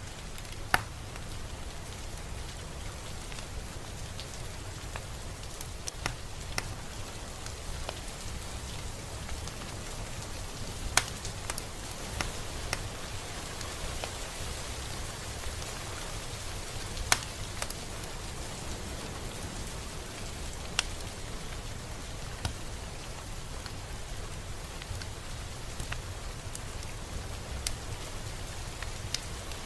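Steady rain falling, an even hiss, with a scattering of louder single drops striking close by as sharp ticks, the strongest a little over halfway through.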